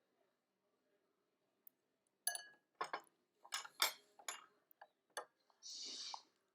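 Tableware clinking: a quick run of sharp clinks, like utensils or glass against a bowl, starting about two seconds in, then a short hissing noise near the end.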